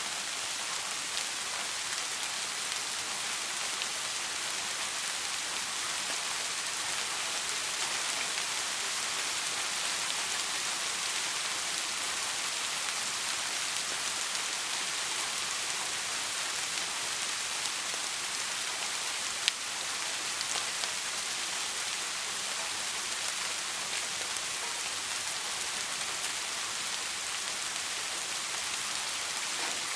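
Steady soft rain falling on a surface, an even hiss of drops with no thunder. A single sharp click stands out about two-thirds of the way through.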